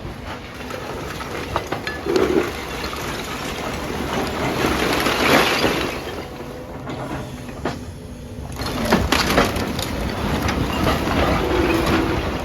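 Demolition noise: masonry and rubble cracking, clattering and crashing as a building is pulled down, with a louder crash about five seconds in.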